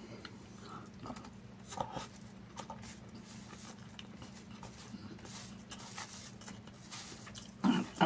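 Close-up chewing and mouth sounds of a person eating chicken biryani by hand, with small clicks and rustles as fingers pick rice off a plastic sheet. A steady low hum runs underneath, and a louder short mouth noise comes near the end.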